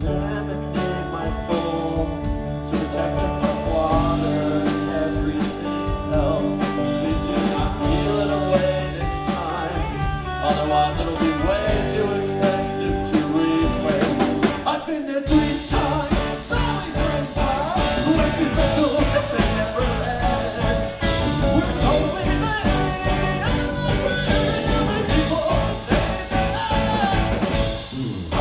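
Rock band playing live, loud and full, coming in together after a pause with electric guitar, bass and drums. About fifteen seconds in the band stops for an instant, then crashes back in.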